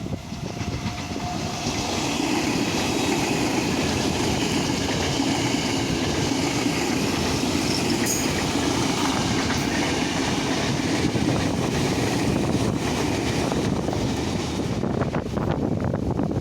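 A train passing along the track, its wheels running on the rails in a steady noise that builds up over the first couple of seconds and dies away near the end.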